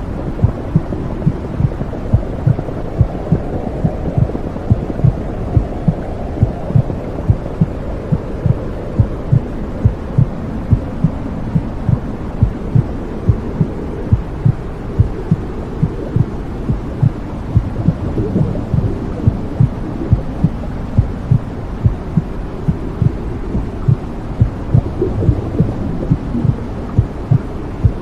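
Womb sound: a steady low whooshing rumble with a heartbeat thumping through it at an even pace.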